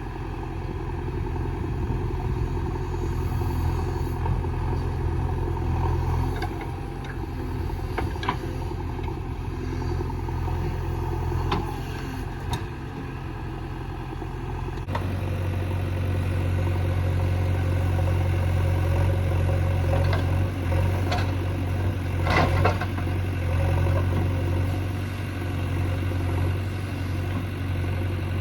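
JCB 3DX backhoe loader's diesel engine running steadily, with a few sharp metallic knocks, the loudest about two-thirds of the way through.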